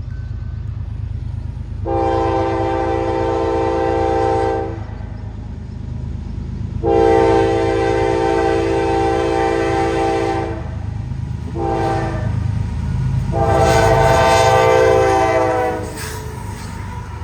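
Diesel locomotive's air horn sounding the grade-crossing signal, two long blasts, a short one and a long one, over the low rumble of the approaching train.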